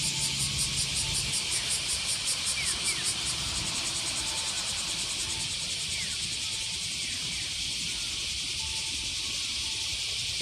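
Insects chirping in a fast, even pulsing rhythm that becomes a steadier buzz after a few seconds, with a few short falling chirps now and then.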